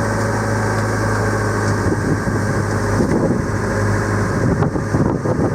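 Training motorboat's engine running steadily with a constant low hum; uneven rushing noise joins it from about two seconds in.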